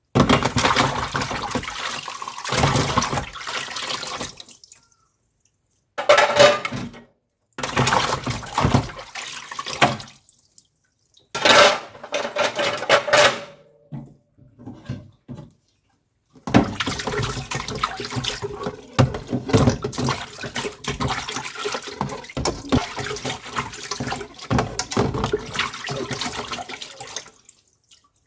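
Water pouring and splashing, in several separate stretches that cut off suddenly into silence.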